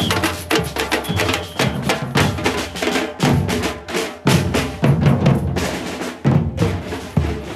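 Drumming, with bass drum and snare drum beating quickly in a dense run of strikes.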